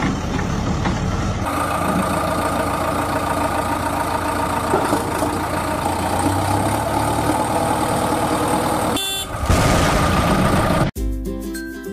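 Motor vehicle noise with a steady horn-like tone over it. It shifts about nine seconds in, then cuts off abruptly and gives way to background music.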